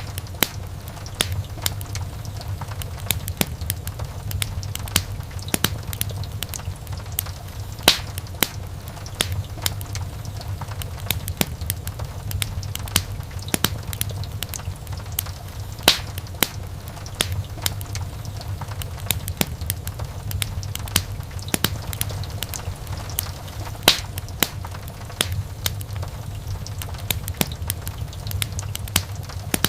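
Wood fire crackling, with a dense run of small clicks and sharp pops over a steady low rumble. The loudest snaps come about every eight seconds.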